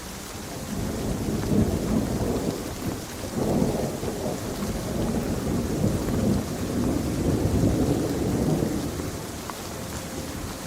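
Steady rain with a long rolling rumble of thunder that swells about a second in, rolls on in several surges and fades near the end.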